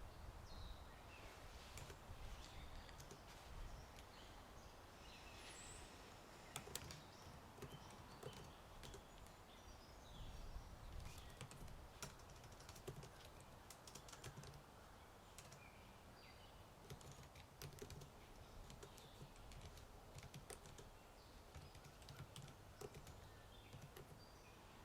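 Typing on a computer keyboard: soft, irregular keystrokes in quick runs and pauses, with faint birdsong and a low rumble of wind behind.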